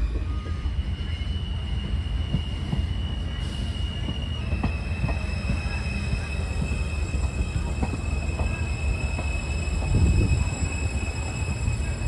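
New York City subway M train running on the rails: a steady low rumble with scattered clicks and thin, steady high-pitched wheel squeal.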